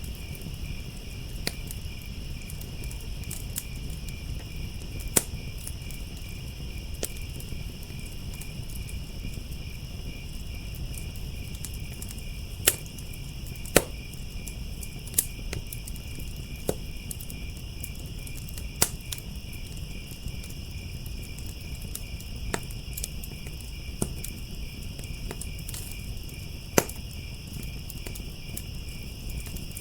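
Wood fire in a firepit crackling, with sharp pops every second or two over a low steady rumble, while crickets trill continuously in a high, even pulse.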